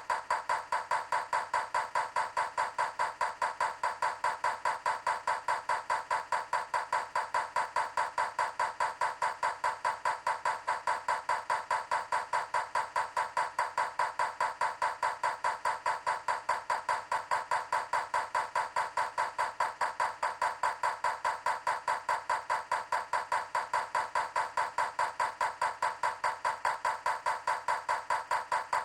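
Rapid, perfectly even knocking or ticking, about four strokes a second, unchanging throughout.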